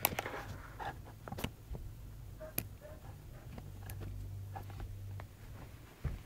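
Handling noise from a camera being set down and settled: a few sharp clicks and knocks with light rustling, and a faint low hum for a second or two midway.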